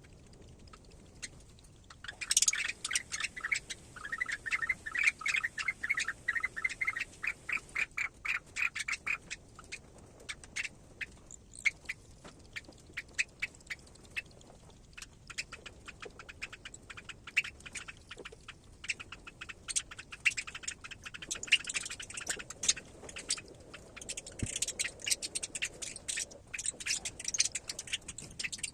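Parrot chick peeping in a fast series of short, high calls, starting about two seconds in, with scratchy clicks mixed in.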